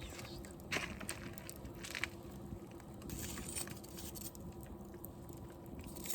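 Wood fire burning, crackling with scattered sharp pops, the loudest about a second in and at two seconds, and a brief hiss near the middle.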